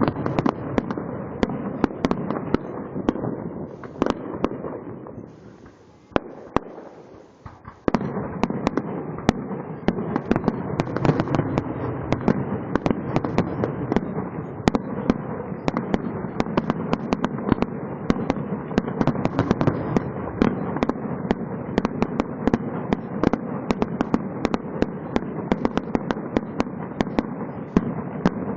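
Fireworks going off in rapid, dense succession: a steady rumble of bursts with many sharp pops and crackles. The barrage thins to a lull about five seconds in, then comes back suddenly and carries on as thick as before.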